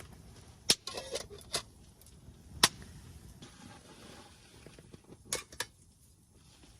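A few sharp clicks and knocks at irregular intervals, the loudest about two and a half seconds in, with a couple more near the end.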